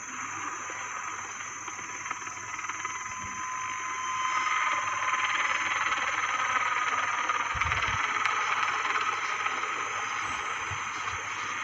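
Helicopter turbine engines running: a steady high whine over a rushing noise that grows louder about four seconds in.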